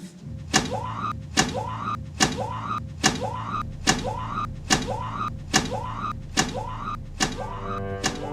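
Film score: a sharp percussive beat repeating evenly, a little more than once a second, over a steady low drone, each hit followed by a short rising tone. Bowed strings come in near the end.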